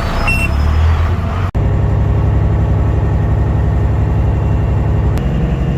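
Heavy diesel engine of a Peterbilt semi truck running steadily at low speed. It cuts out for an instant about a second and a half in, and its note shifts slightly near the end.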